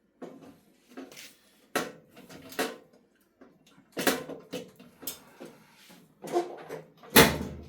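Hard parts being handled and set down: a string of separate knocks and clatters about a second apart, the loudest near the end.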